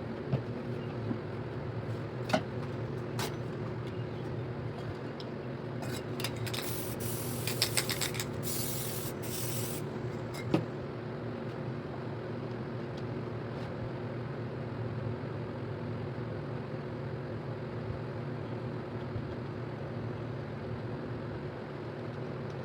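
Aerosol spray paint can hissing in a few short sprays, then one longer spray of about a second and a half, over a steady low hum. A few sharp taps come before and just after the spraying.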